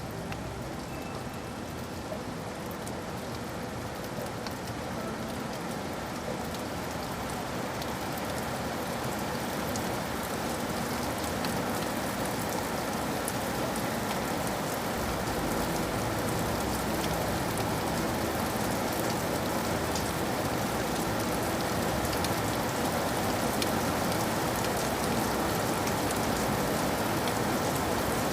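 Steady rain falling, an even hiss dotted with the ticks of separate drops, gradually growing louder.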